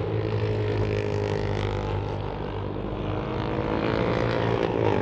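Racing motorcycle engines running at high revs as several bikes climb toward the finish line, a steady engine drone.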